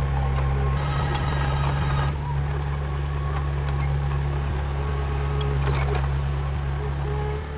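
Diesel engine of a heavy machine running steadily, with thin higher squeaking tones and light ticks over the drone.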